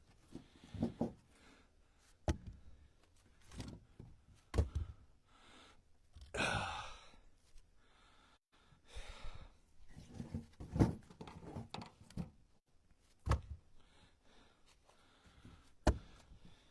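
Split ash firewood pieces knocking against each other as they are stacked into a truck: about five sharp wooden knocks a few seconds apart, with a person's heavy breathing and sighs in between.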